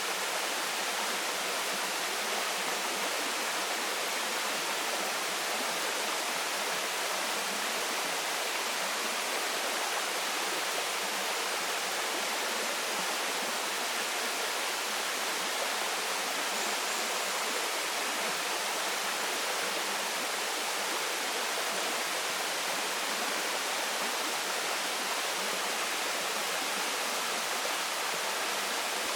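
Waterfall pouring steadily, an even rush of falling water with no change.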